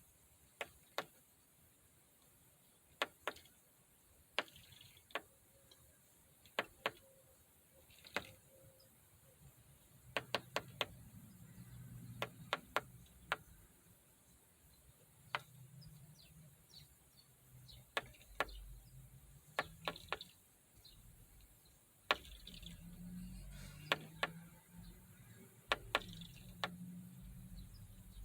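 A bird repeatedly knocking its beak against a hard surface: sharp, irregular taps, some single and some in quick runs of two to four.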